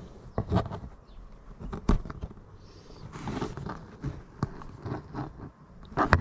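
Handling noises: scattered light clicks, knocks and rustles of hands working on car interior parts, with one sharp, louder knock near the end.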